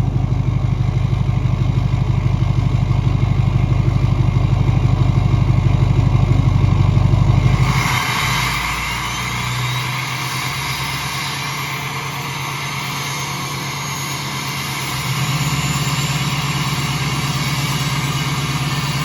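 Straight-piped 2006 Duramax LBZ 6.6-litre V8 turbodiesel running on its cold-start high idle. About eight seconds in the deep exhaust drone falls away, and a faint high whistle rises over a lighter engine sound. The deep drone comes back about fifteen seconds in.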